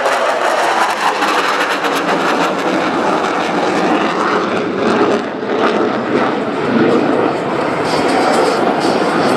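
Dassault Rafale C fighter jet's twin Snecma M88 turbofans, loud and rushing as the jet flies its display, easing briefly about five and a half seconds in.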